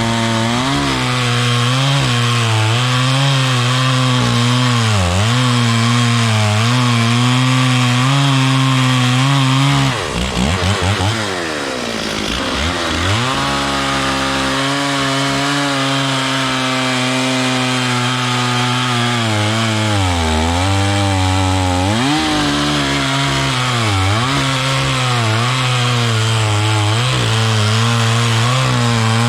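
Stihl 440 two-stroke chainsaw cutting wood at full throttle, its engine pitch sagging and recovering every few seconds as the chain bites into the wood. About ten seconds in the engine drops off briefly and climbs back up to speed before cutting on.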